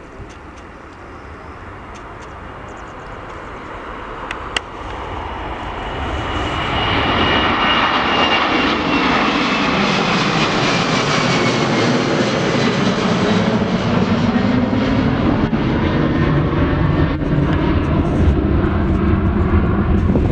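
Jet airliner flying past, growing louder over the first seven seconds and then staying loud, with a high engine whine that falls in pitch as it goes by. A brief click about four and a half seconds in.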